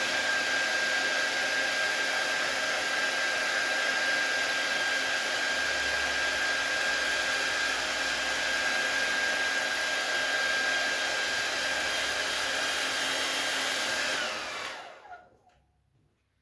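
Hand-held hot-air blower running steadily, a rushing hiss with a high whine, heating vinyl wrap film. About two seconds before the end it is switched off and winds down.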